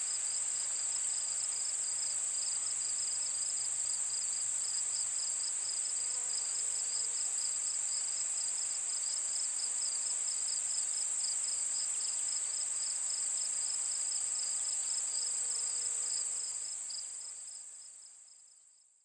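Chorus of night insects: a continuous high shrill trill with a rapidly pulsing chirp beneath it, fading out over the last few seconds.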